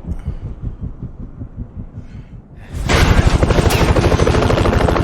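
Action-film soundtrack: a low, fast pulsing throb, then about three seconds in a sudden loud burst of rapid automatic gunfire that keeps going.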